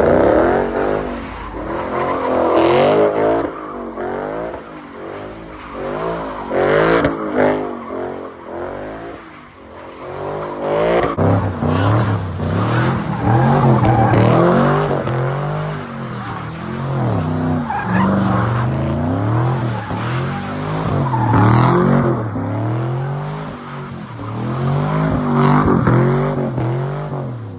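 Car engine revving hard, its pitch climbing and dropping again and again, with tyre squeal and skidding, as a car does donuts or a burnout.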